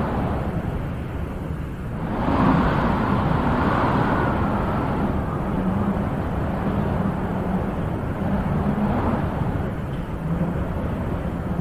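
Wind blowing steadily with a low rumble, a stronger gust swelling about two seconds in and easing off over a few seconds.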